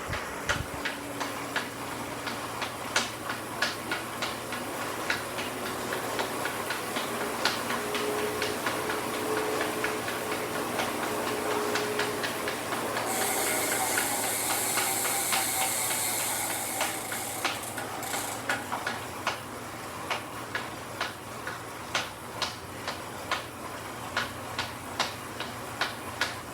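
Elite Direto direct-drive smart trainer running with a regular clicking, about one and a half clicks a second, over a steady whir and hiss: the abnormal noise the trainer is making. A louder hiss comes in for a few seconds around the middle.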